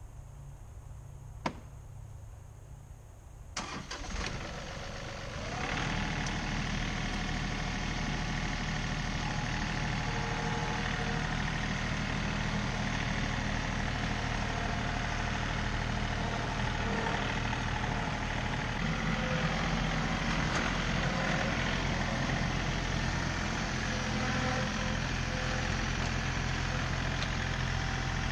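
Compact diesel tractor engine, a quiet low hum at first with a single click, then coming up loud about three and a half seconds in. A short rising whine follows about two seconds later, and then the engine runs steadily.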